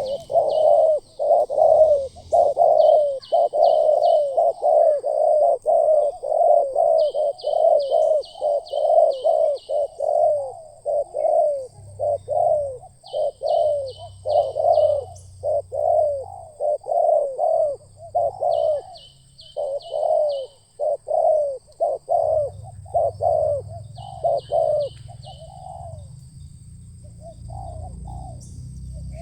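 Spotted doves (tekukur) cooing: a long run of low, rapid coos, a few each second, broken into groups by short pauses.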